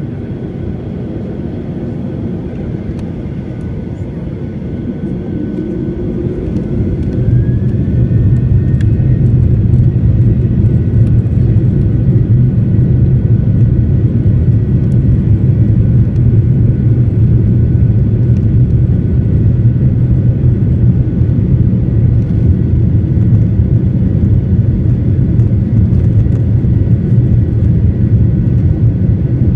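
Cabin noise of a Boeing 737-800 with its CFM56-7B turbofans: about seven seconds in, the engines spool up with a short rising whine and the rumble grows much louder, then holds steady and loud, as at takeoff thrust.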